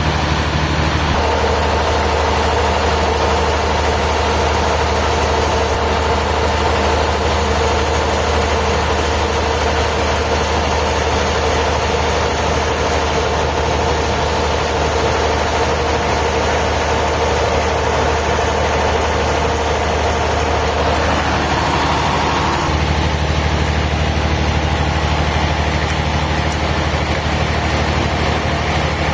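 Engine-driven sawmill machinery running steadily, with a mid-pitched tone that comes in about a second in and shifts and fades around twenty-one seconds in.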